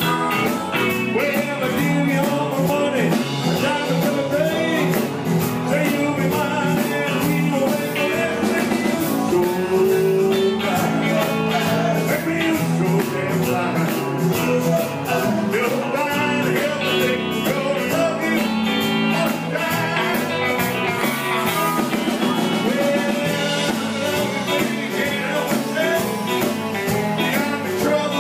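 Live blues-rock band playing, with electric guitar over a steady drum beat.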